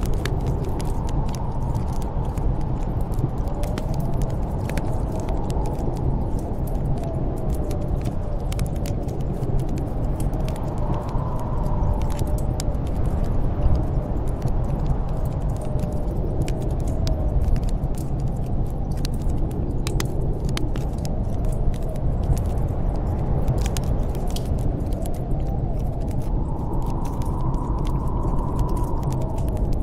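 Snowstorm wind blowing steadily with a low rumble and a wavering howl that swells and fades, over the scattered sharp pops and crackles of a wood fire burning in a fireplace.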